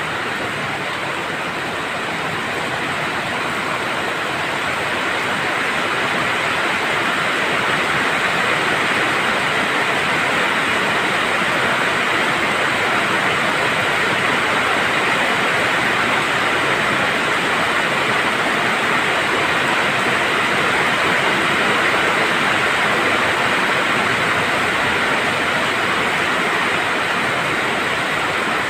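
Heavy rain falling steadily, an even hiss that grows slightly louder in the first several seconds.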